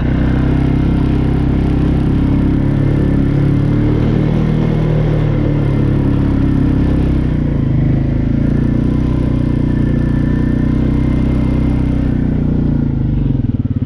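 2014 TGB Blade quad bike's engine running steadily while being ridden, its pitch wandering a little with the throttle. Near the end it drops back to an even, pulsing idle.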